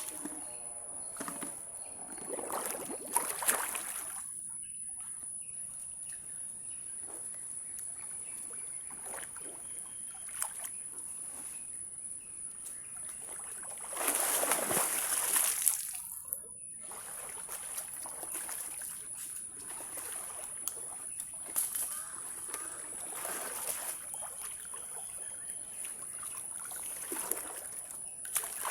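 Water sloshing and splashing, with brief louder surges of splashing; the longest and loudest, about two seconds, comes around the middle.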